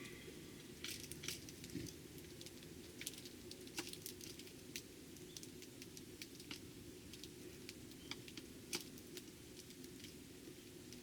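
Irregular light taps and clicks from tree sparrows pecking at seed and hopping about the feeding spot, a few sharper ones standing out, over a faint steady low hum.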